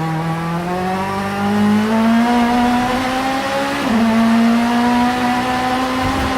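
Vauxhall Vectra Super Touring race car's two-litre engine pulling hard under acceleration, its pitch climbing steadily. About four seconds in, the note drops sharply at a quick upshift, then starts climbing again.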